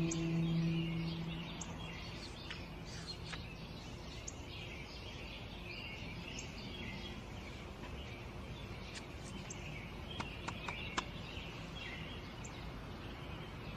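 Small birds chirping and twittering in the background, with a low held musical tone dying away in the first couple of seconds. A few sharp clicks come about ten seconds in.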